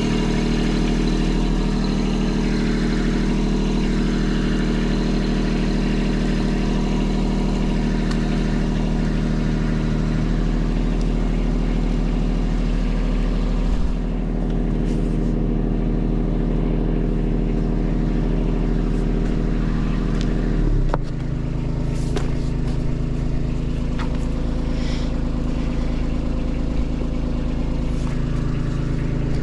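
Kubota diesel engine running steadily at a constant speed; about two-thirds of the way through its note changes abruptly, as with a change of throttle or load.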